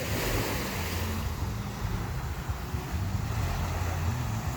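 Ocean waves washing onto the shore, with wind buffeting the microphone.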